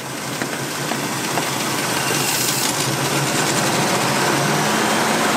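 Carbureted truck engine revved up by hand at the throttle and held at raised RPM, getting louder over the first couple of seconds, so the distributor's timing advance can be checked with a timing light.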